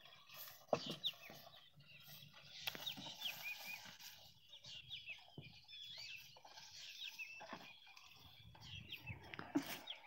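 Birds chirping in many short, high calls, with a few sharp clicks scattered among them.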